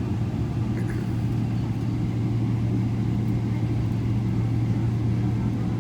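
Airliner's jet engines running steadily at low taxi power, heard inside the passenger cabin as an even low hum with a strong deep tone.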